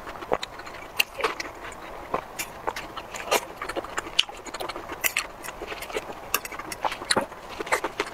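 Close-miked eating: chewing and biting into juicy fruit (pineapple and a cherry tomato), heard as irregular sharp, wet clicks and crunches several times a second.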